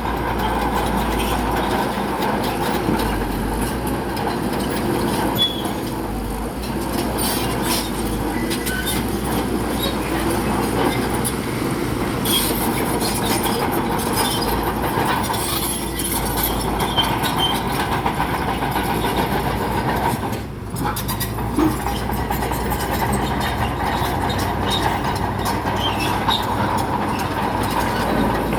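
Crawler bulldozer working: diesel engine running steadily with its steel tracks clanking and squealing, and scattered knocks throughout.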